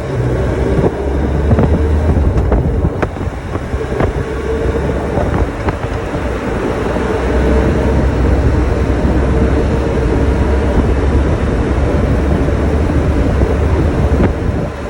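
Motorcycle engine running with a steady low drone, with a few sharp clicks in the first six seconds.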